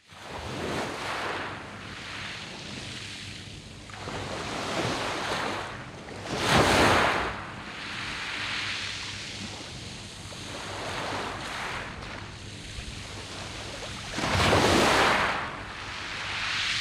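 Sea waves breaking and washing over a round-pebble beach, coming in surges that swell and fade every few seconds, the two strongest about seven and fifteen seconds in.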